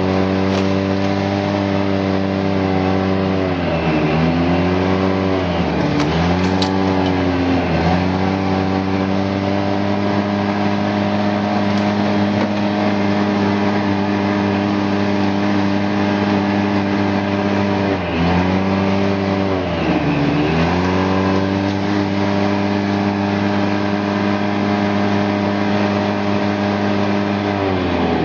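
Car engine running hard at a steady pitch over a continuous rushing noise; several times the pitch drops briefly and climbs back, in clusters a few seconds in, around the middle and near the end.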